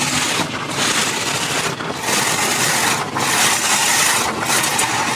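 Automatic drive-through car wash working on the car, heard from inside the cabin: a loud, steady hiss of water spray and scrubbing that dips briefly about once every second and a quarter as the equipment sweeps past.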